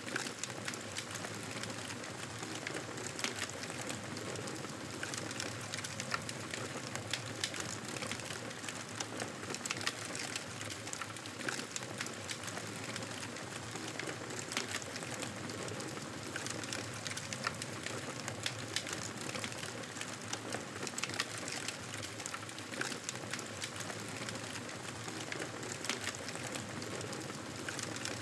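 Campfire burning steadily, a constant hiss with frequent sharp crackles and pops from the burning wood.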